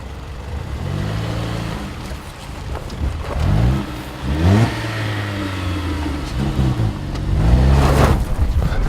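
Car engine accelerating in several surges, its pitch climbing with each one, louder near the end.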